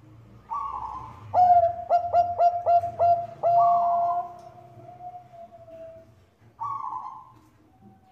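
Bangkok-type zebra dove (perkutut) cooing. A short falling note comes first, then a rapid run of about six clipped coos that ends in a long drawn note fading away, and one more short falling note near the end.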